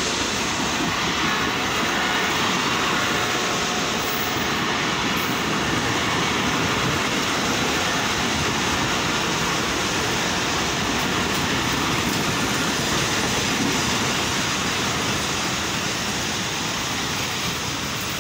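Passenger train running along the track past the platform, a steady loud rolling rumble of coaches on rails that eases off over the last few seconds as the train brakes toward a stop.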